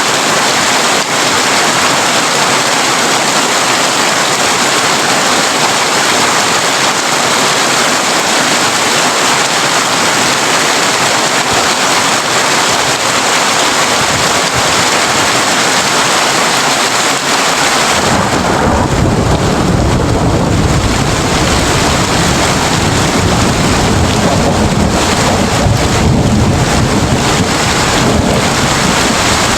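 Heavy rain drumming steadily on a corrugated tin roof; about two-thirds of the way through, a long low rumble of thunder rolls in and keeps going under the rain.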